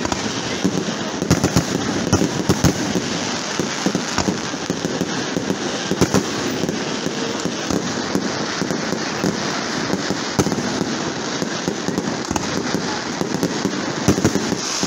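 Fireworks display going off: a dense, continuous crackling with many bangs a second, and louder single bangs scattered through.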